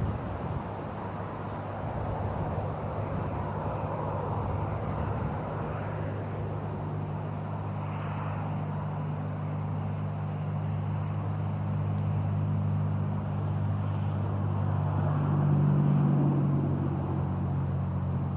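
Helicopter engine and rotor running steadily with a low, even drone. It grows gradually louder to a peak near the end, then begins to fade.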